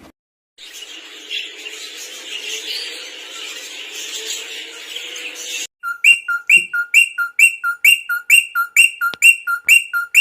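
Pet birds chirping and twittering, then, after a cut about halfway in, one bird repeating a loud two-note chirp, a lower note jumping to a higher one, about two or three times a second.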